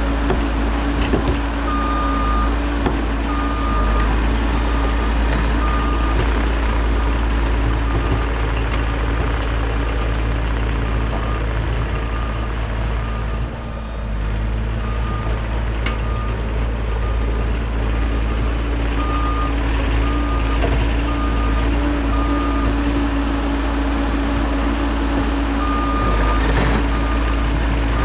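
Bobcat E50 compact excavator's diesel engine running steadily, with its alarm sounding in short, unevenly spaced beeps. The engine dips briefly about halfway through.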